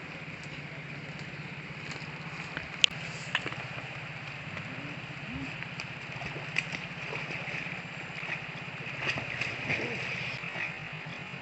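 An engine idling steadily, with a few sharp clicks over it.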